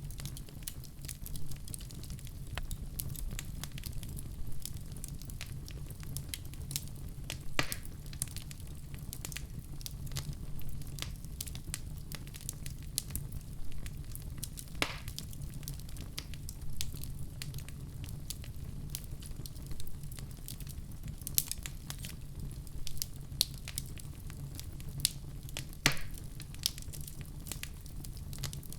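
Wood fire crackling: a steady low rumble of flames with constant small crackles and three sharper pops spread through.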